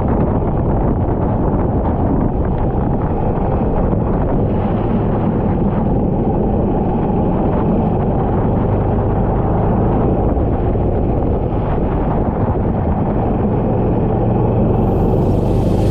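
Kart engine running at speed, with wind buffeting the microphone. Near the end a bright hiss joins in.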